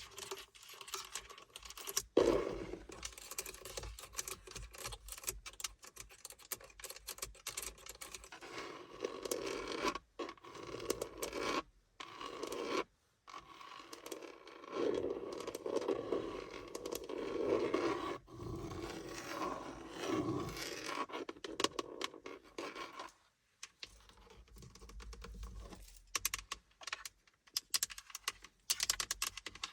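Scratching and scraping on car surfaces, in bouts with short pauses, turning to quicker separate taps near the end.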